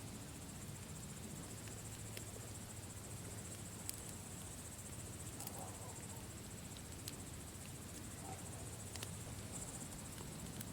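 Campfire crackling, with sharp pops every second or two over a low steady rustle, and crickets chirring steadily behind it.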